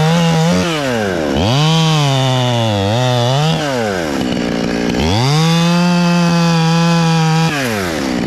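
Two-stroke chainsaw revved up and held at full throttle, then let back toward idle, twice. The runs come in the first half and again from about five seconds in, as it cuts into very hard Australian pine wood.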